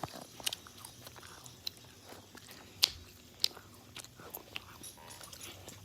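Fidget spinners spinning in a race: a faint steady whir with scattered light clicks and taps.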